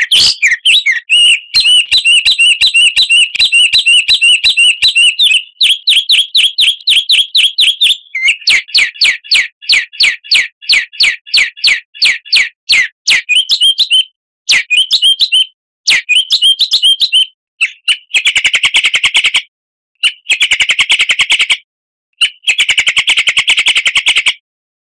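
Songbird singing loud, fast runs of repeated chirping notes, continuous at first, then in separate phrases with short pauses, stopping shortly before the end.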